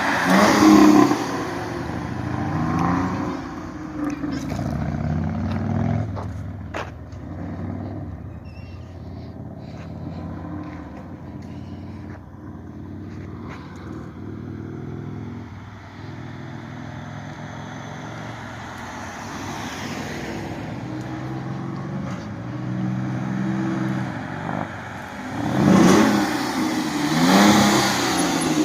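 Dodge Magnum V6 engine running through a Challenger exhaust, idling between revs, with a rev about a second in and two more near the end.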